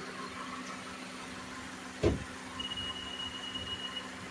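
2015 Honda CR-V's four-cylinder engine idling steadily with the air conditioning running on full. A single sharp knock about two seconds in, and a thin high steady tone for about a second and a half near the end.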